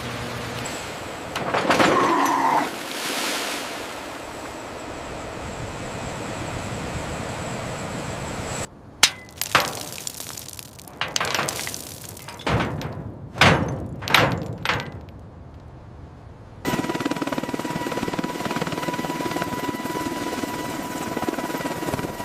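A run of heavy thuds and knocks, then a steady machine hum with a high tone through it.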